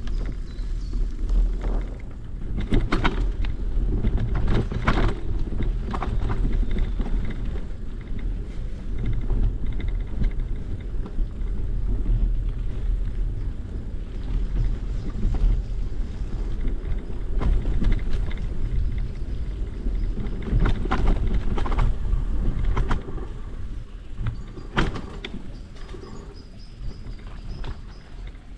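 Bicycle ride on a trail: a steady low rumble of wind on the microphone and tyres rolling, with bursts of rattling clicks from the bike over bumps. It eases off near the end.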